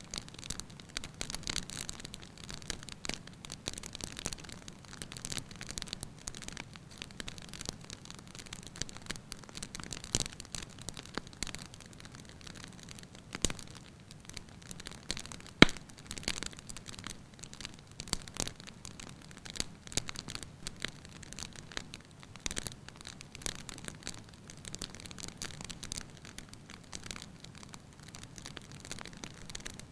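Fire burning in a fireplace, crackling with many small irregular pops over a steady low background, and one sharp, much louder pop about halfway through.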